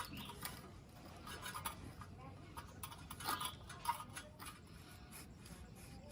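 Irregular light clicks and scrapes of hands and tools handling bicycle parts, loudest about midway.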